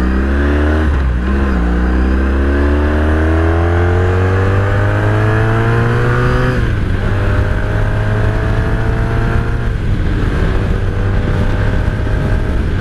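1983 Honda Sabre VF750S's V4 engine accelerating hard through the gears. The pitch climbs in each gear and drops at the upshifts about a second in, just past halfway and near the end, taking the bike up to fourth gear at about 60 mph.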